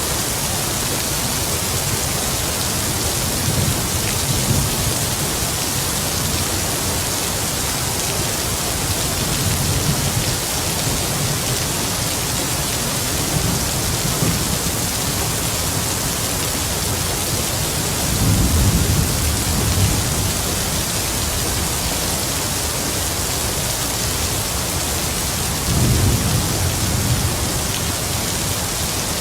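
Steady heavy rain with distant thunder rumbling low under it several times, loudest about two-thirds of the way through and again near the end.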